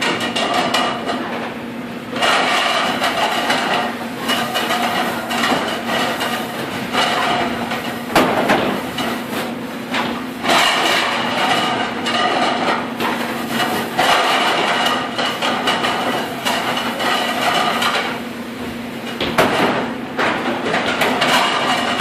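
Rapid, continuous clatter of plates and dishes being handled and stacked at a commercial dish pit, knock after knock with a few short lulls, over a steady machine hum.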